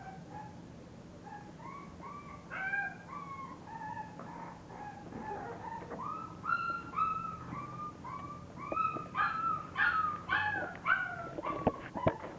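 English bulldog puppies whimpering and crying: a steady run of short, high, falling squeals, growing louder and more frequent partway through, with a few sharp clicks near the end.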